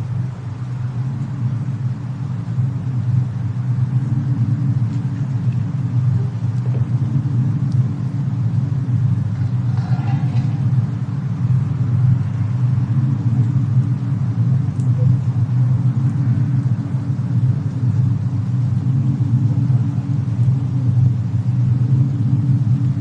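Fireplace-and-snowstorm ambience: a steady, deep rumble that swells over the first few seconds, with faint scattered crackles above it.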